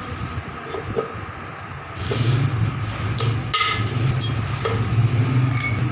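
Several sharp tool knocks and taps at a repair bench, the last one ringing briefly like struck metal, over a steady low hum that sets in about two seconds in.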